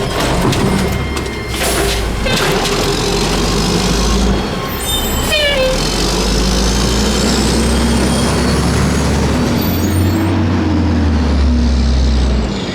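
Mack LE garbage truck with an Amrep automated side-loader body at work: the diesel engine runs steadily and revs up in the last few seconds. A few knocks come in the first couple of seconds, and squeaks and a faint rising whine in the middle, as the loader arm cycles.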